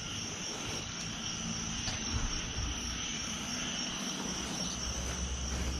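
Insects droning steadily in a high, even band, over a faint low rumble.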